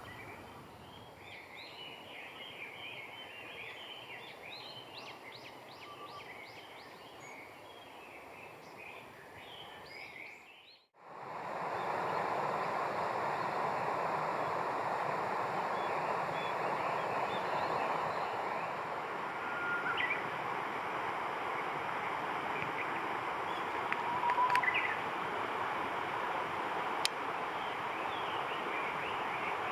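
Small birds chirping outdoors, with a quick run of rapid chirps, over a faint hiss. About eleven seconds in it cuts to a louder, steady rushing noise with a few scattered bird calls.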